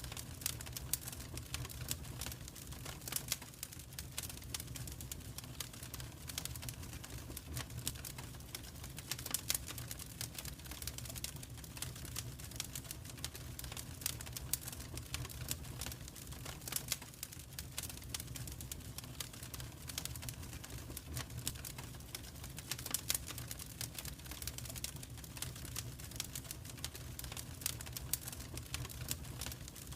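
Wood fire crackling, with many small irregular pops and snaps over a low steady rumble.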